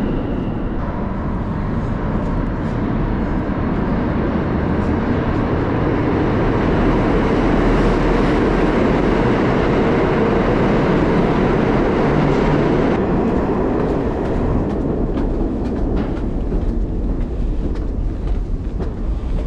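New York City subway E train running between stations: a loud, steady rumble of wheels on rail that swells through the middle, with a series of sharp clicks in the second half.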